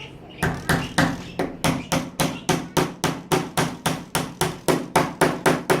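Hammer driving a small nail through a wooden stick: a steady run of about twenty strikes, roughly four a second, that stops just before the end.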